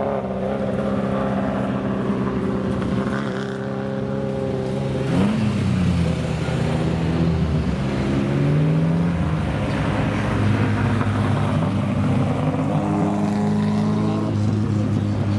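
Vintage racing car engine idling unevenly, blipped several times so its pitch rises and falls briefly.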